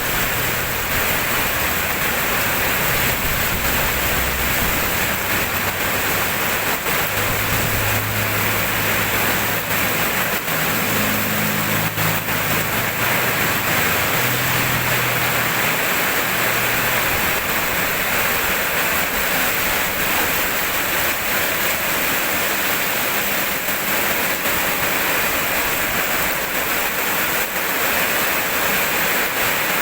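Heavy rain falling, a steady, even hiss that does not change. A low rumble comes and goes underneath during the first half.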